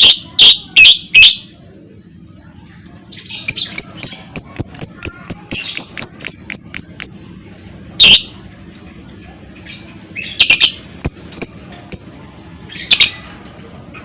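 Lovebird calling: runs of sharp, shrill chirps at about four to five a second, broken now and then by louder, harsh screeching calls.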